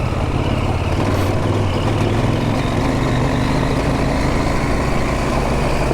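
Adventure motorcycle engine running steadily under way, its low note holding nearly even.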